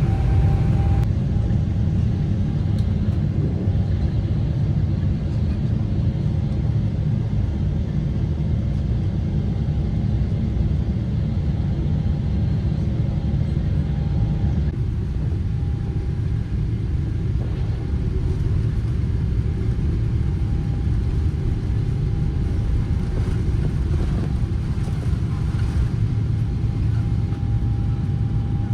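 Boeing 777-300ER's GE90 engines at take-off thrust, heard from inside the cabin: a loud, steady, deep rumble with a high engine whine that finishes rising about a second in and then holds at one pitch.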